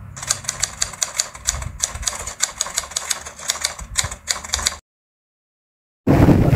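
Rapid, regular clicking, several sharp clicks a second in short runs with brief pauses, cutting off abruptly about five seconds in. After a second of silence, music begins near the end.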